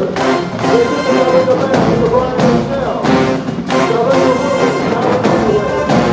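Marching band playing, brass horns carrying the tune over drum hits that fall at a steady beat.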